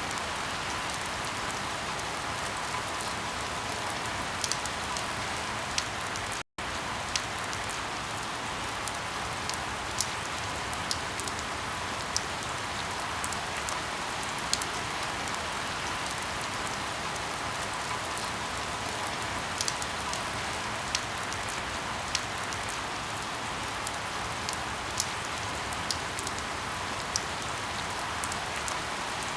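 Steady rain with many scattered sharp crackles and pops of burning firewood. The sound cuts out for an instant about six and a half seconds in.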